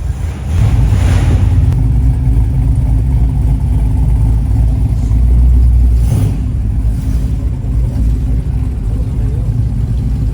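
Car engine running loudly and low-pitched. It picks up about half a second in and is loudest around the middle, with some revving.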